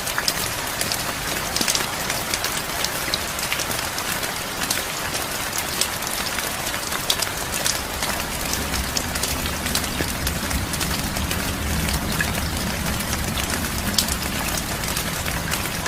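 Heavy rain falling steadily, with individual drops striking close by as sharp ticks. A low rumble builds underneath from about halfway through.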